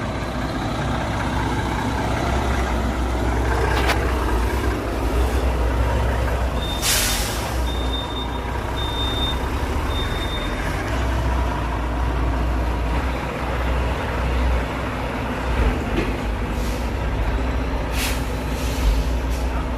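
Heavy bitrem truck's diesel engine running steadily at low speed while it manoeuvres. The air brakes hiss about seven seconds in and again near the end, and four short high beeps come about a second apart after the first hiss.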